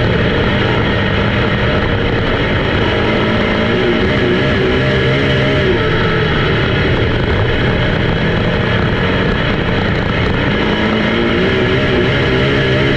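Several race car engines running at speed on a track, their pitch rising and falling as they go around.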